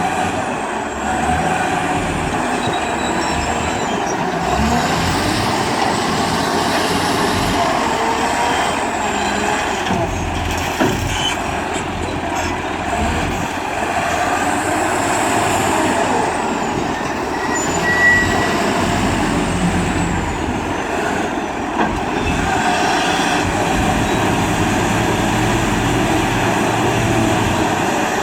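Wheel loader's diesel engine running steadily under work, with a high whine that rises and falls several times and a few sharp knocks.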